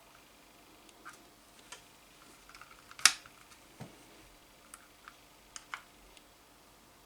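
Scattered light clicks and taps of small hard parts being handled, with one sharp, loud click about three seconds in and a duller knock just after.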